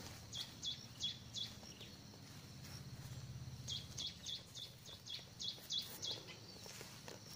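A bird calling: runs of short, high chirps, each dropping in pitch, about three a second. There are four near the start and a longer run of about eight from about halfway in, with a faint low hum between them.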